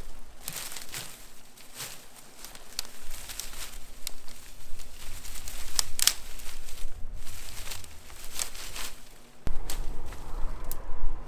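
Brushwood being handled: twigs and small branches rustling, crackling and snapping in irregular bursts. A low rumble comes in near the end.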